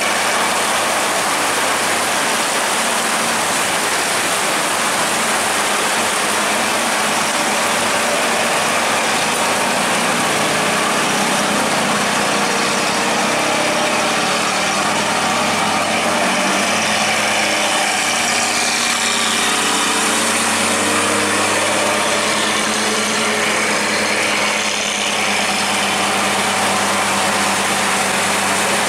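Heavy rain falling steadily on a road, with the engines of passing vehicles (a bus, trucks and motorcycles) running underneath as a low hum.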